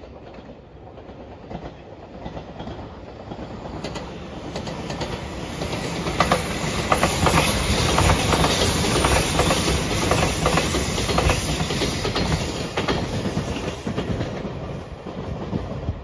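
JR Shikoku 8000 series electric limited express train passing by. The sound builds as it approaches and peaks in the middle with rapid clicking of wheels over rail joints, then fades as it draws away near the end.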